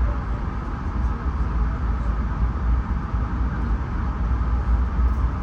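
Steady low rumble and running noise of a Bombardier LRC passenger train car rolling along the rails at speed, heard from inside the car.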